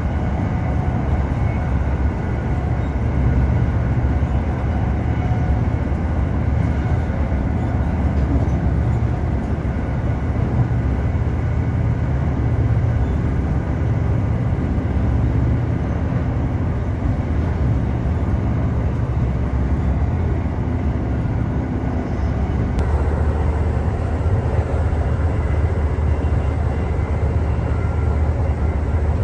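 Passenger train's steady running rumble, heard from inside the moving train.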